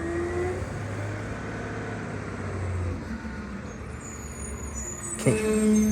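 McNeillus Zero Radius garbage truck running with a low, steady engine hum that eases off about halfway through. Near the end, a louder steady tone cuts in suddenly.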